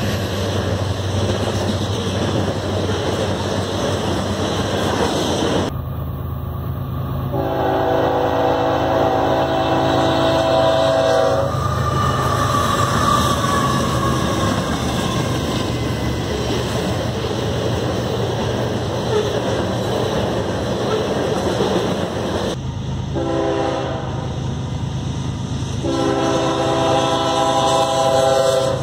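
Diesel freight trains rumbling past on the rails, with a locomotive air horn sounding its chord: one long blast about seven seconds in, then a short blast and a longer one near the end.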